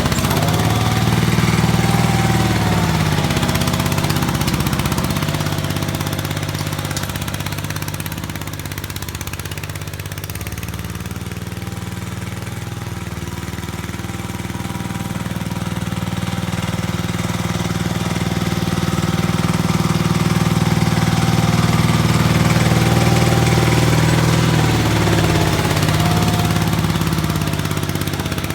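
Gravely 8163 garden tractor's Briggs & Stratton engine running steadily, its pitch dipping briefly near the start and again near the end, and growing quieter for a while in the middle before coming back up.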